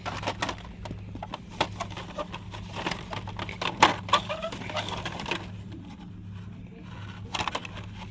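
Shop interior ambience: a steady low hum with scattered light clicks and knocks, the sharpest about four seconds in.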